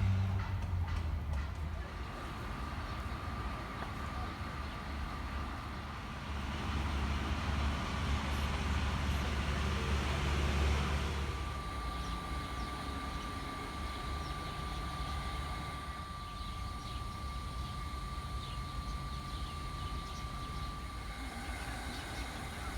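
Road traffic rumbling, with a vehicle passing by, swelling and fading about halfway through, then a steady high whine for several seconds.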